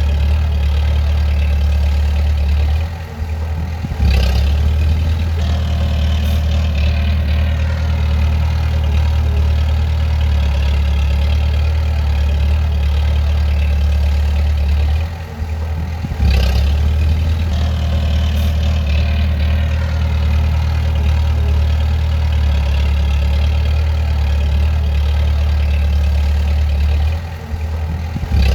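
Bulldozer's diesel engine running steadily with a deep drone. About every twelve seconds it drops off for a moment and picks back up, with a short sharp noise as it does, twice.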